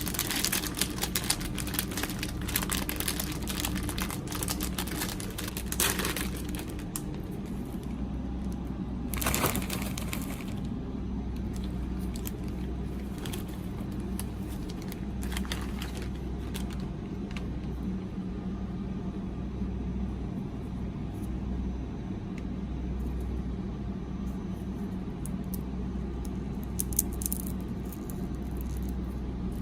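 Crinkling and clicking of snack packaging being handled, busiest in the first ten seconds and then only occasional ticks, over a steady low hum.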